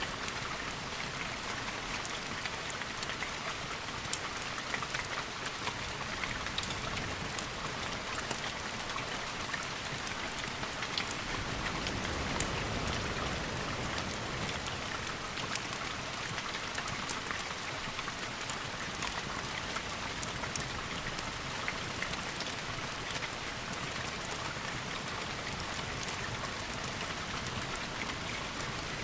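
Steady rain falling in an even hiss, with many small sharp ticks scattered through it.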